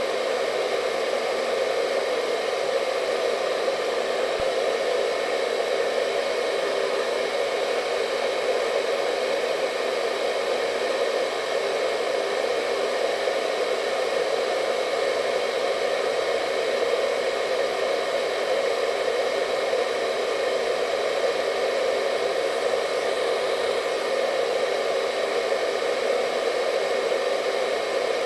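Hair dryer running steadily: a constant airy whoosh, strongest in the low middle, with a faint high whine from its motor.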